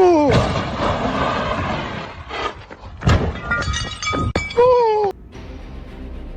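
A car crash: a squeal falling in pitch and loud crunching, a sharp impact about three seconds in with breaking and clatter, and a second falling squeal. Background music starts abruptly near the end.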